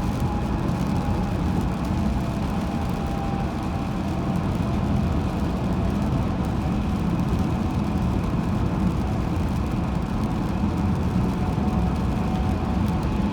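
Steady road and engine noise of a car driving on a highway: an even low rumble that holds level throughout.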